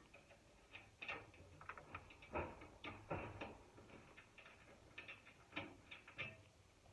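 Hands fitting dryer parts back into place: a string of light, irregular clicks and taps of metal parts, with a few louder knocks about one, two and a half and three seconds in.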